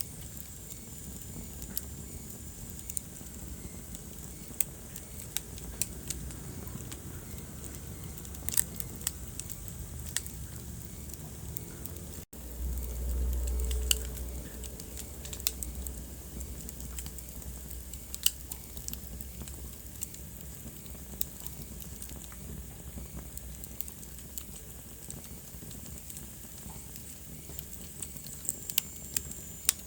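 Wood fire burning in a fireplace, crackling with sharp, irregular pops over a steady hiss of the flames. About twelve seconds in the sound drops out for an instant, then a low rumble rises for a second or two.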